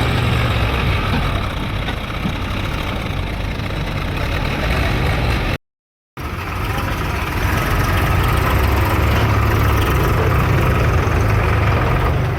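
Diesel engines of farm tractors and a backhoe loader running steadily. The sound cuts out completely for about half a second midway, then resumes.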